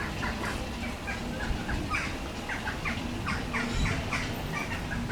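Birds calling, many short chirps in quick succession.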